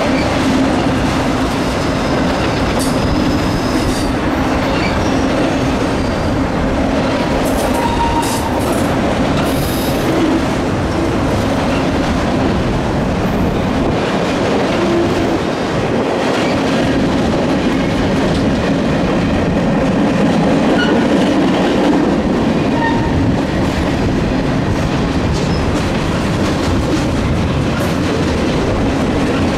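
Freight cars of a long mixed freight train, autoracks then tank cars, rolling past with a steady rumble and rattle of steel wheels on the rails, and a few brief wheel squeals.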